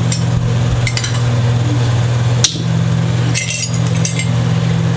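Small loose parts clinking and rattling as they are sifted through in a small cup, with scattered clicks and one sharp click about halfway through, over a steady low hum.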